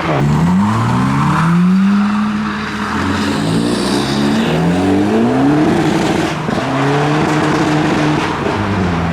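Modified car engine revving hard as the car pulls away. The revs sweep up, then climb and drop several times in quick steps before settling near the end.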